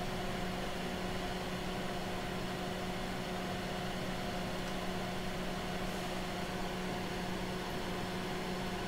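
Steady hum and hiss of bench test equipment running, with one low steady tone and two fainter higher tones above it.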